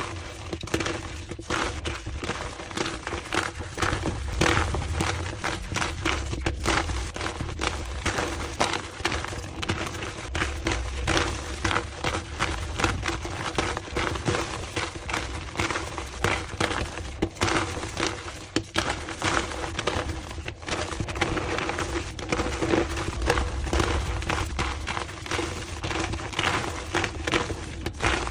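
Blocks of gym chalk being crushed and crumbled, a continuous dense crackle of crunches, sped up to double speed.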